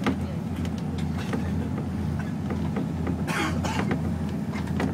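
Small boat's engine running steadily with a low drone, under wind noise, with scattered knocks and a short loud rush a little over three seconds in.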